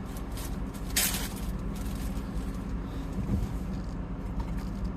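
Car engine idling with a steady low hum, with a short loud rustle about a second in and a few light clicks.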